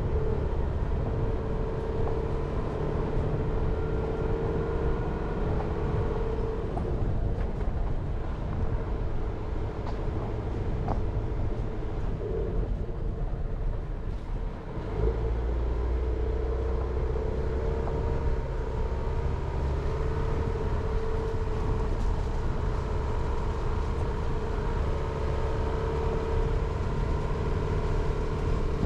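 Jeep Renegade driving along a forest road: a steady engine hum with tyre and road rumble. About halfway through the sound dips briefly, then the low rumble comes back heavier.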